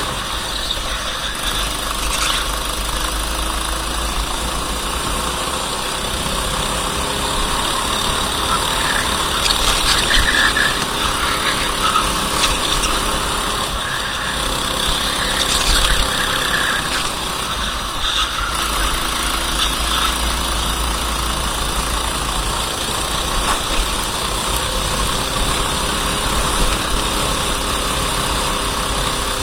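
Racing kart engine running steadily, its pitch drifting slowly up and down.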